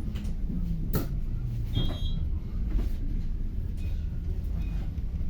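Inside a city bus: the steady low rumble of the engine and running gear, with a sharp click about a second in and a brief high beep around two seconds.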